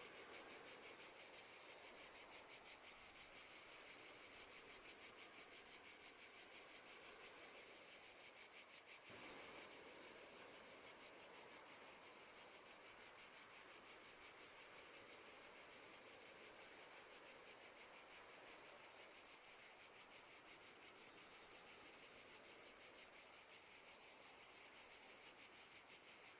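Crickets chirping: a faint, steady, high-pitched trill of rapid pulses.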